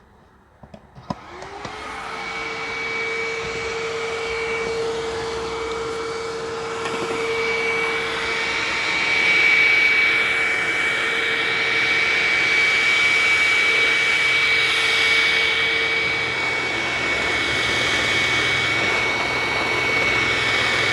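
Hoover WindTunnel upright vacuum cleaner starting up about a second in with a click, its motor spinning up to a steady whine over a rush of air, then running on; it runs very oddly. The whine fades out near the end while the motor keeps running.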